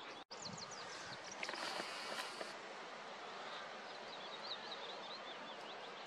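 Faint outdoor ambience: a steady background hiss with scattered distant chirps of small birds, and a brief higher buzzing about two seconds in.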